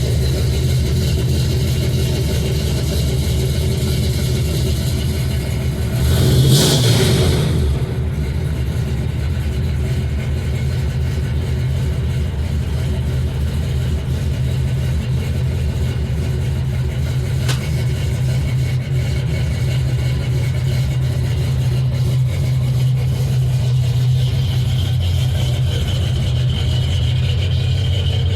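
Carbureted Vortec small-block V8 with an LT4 hot cam running at a steady idle shortly after a cold start without a choke, with a brief louder rise about six seconds in.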